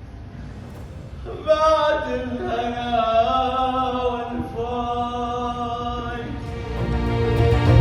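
A solo voice chanting long, drawn-out, wavering notes, coming in about a second and a half in. Near the end, music with a strong low part swells in beneath it.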